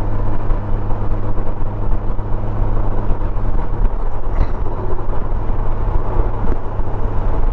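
Honda Gold Wing motorcycle cruising on the road, its engine a steady drone under a constant haze of wind and road noise.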